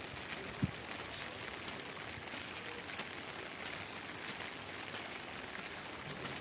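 Steady rainfall, a hiss with scattered drops ticking on a surface, and one short low thump about half a second in.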